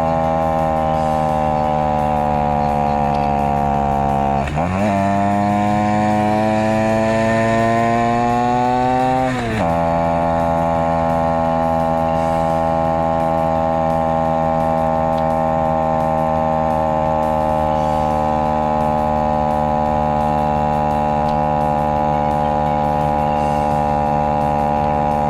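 Honda Monkey Z50J's small four-stroke single-cylinder engine running under load on a steep climb, sounding high and buzzy because it is played back at double speed. About four seconds in the revs jump up with a short break in the sound, as at a downshift, climb steadily for about five seconds, then drop back at an upshift and hold steady.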